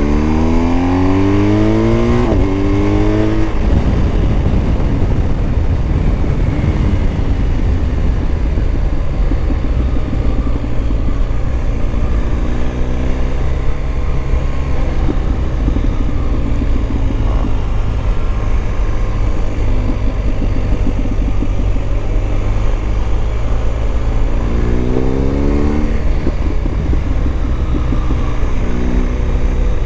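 BMW motorcycle engine pulling hard through two gears at the start, with rising pitch and a brief drop at each shift. It then cruises at a steady pitch and picks up again twice near the end.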